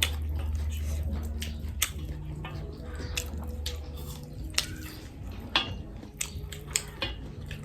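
Close-up chewing and biting of food, with scattered sharp clicks and small crunches from eating off a plate, over a low steady hum.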